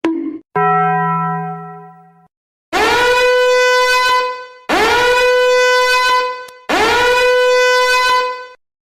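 Three long, loud horn blasts in a row, each about two seconds and bending up in pitch at the start, after a shorter, lower, fading tone.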